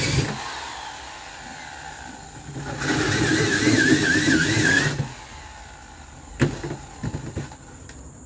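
Electric drill boring through the shell of a freezer fridge: it stops just after the start, then runs again for about two seconds with a wavering whine, followed by a few sharp knocks.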